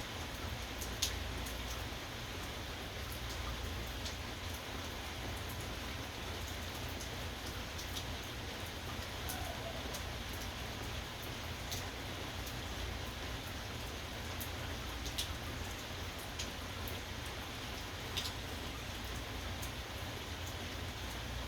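Steady rainfall, with scattered sharp ticks of drops striking a hard surface; a few louder drip ticks stand out about a second in and twice in the last third.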